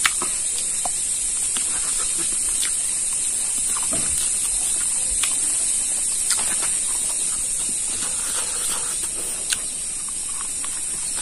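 Close-up eating sounds of a cooked pig trotter being bitten and chewed: scattered short wet smacks and clicks of chewing and gnawing, over a steady high-pitched hiss.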